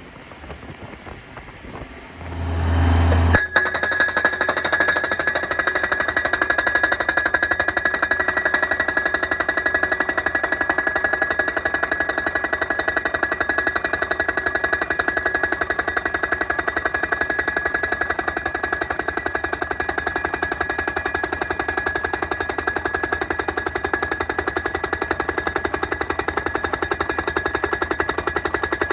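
Pile driver's hammer starting up about three seconds in with a brief low rumble, then pounding a steel pile in a rapid, even rhythm, with a steady high ringing note over the strikes.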